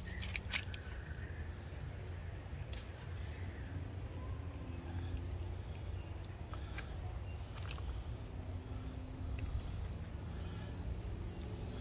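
Crickets chirping steadily in the background, a fast pulsing high trill, over a low rumble, with a few faint clicks.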